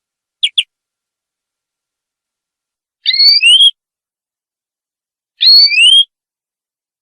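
Canary calling: two quick chirps near the start, then two matching phrases of rising whistled notes, each under a second, about two and a half seconds apart, with silence between.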